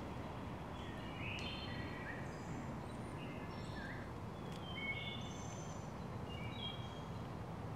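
Several songbirds chirping and singing in short, separate phrases over a steady low outdoor rumble.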